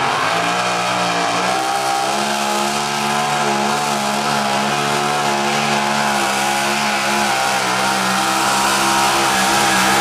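A pulling vehicle's engine running hard at high, nearly steady revs, with a slight waver in pitch and a small dip about a second and a half in.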